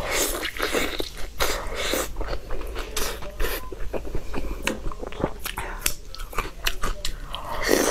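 Close-miked biting and wet chewing of a large braised pork meatball (lion's head), with many short mouth clicks and smacks and a louder burst near the end.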